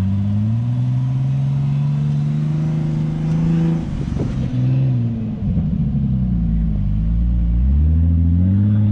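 An SUV's engine running close by at raised revs, holding a steady pitch, then dropping sharply about four seconds in with a knock, wavering up and down, and rising again near the end as it is revved.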